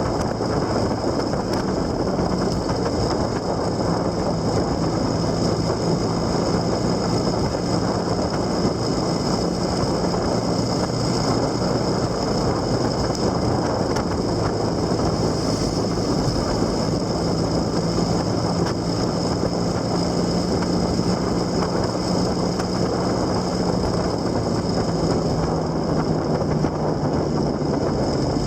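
A vehicle on the move: a steady engine hum that shifts slightly in pitch, under continuous wind and road noise.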